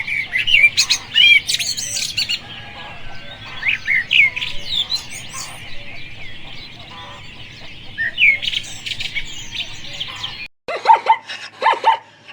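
Small birds chirping and singing, with many quick chirps and trills over a steady background hiss. After a brief break about ten seconds in, a different animal starts a rapid series of short, lower calls.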